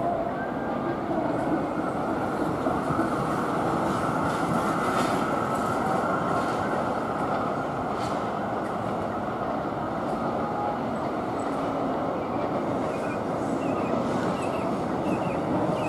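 Melbourne Metro electric suburban train running over the tracks, a steady rumble of wheels on rail, with a few faint high squeaks near the end.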